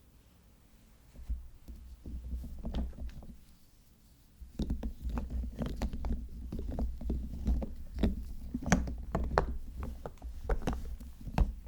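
Hands handling and unwrapping soap packaging: irregular rustles, taps and clicks that begin about a second in, pause briefly around four seconds, then come thicker.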